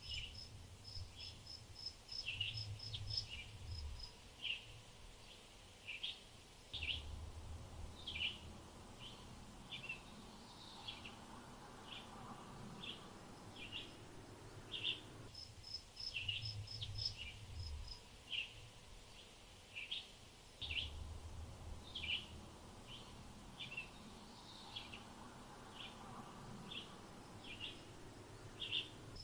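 Outdoor bird ambience: small birds giving short, repeated chirps, with a high, evenly spaced series of ticks coming in now and then and a low rumble of wind at times. The whole pattern repeats after about fifteen seconds.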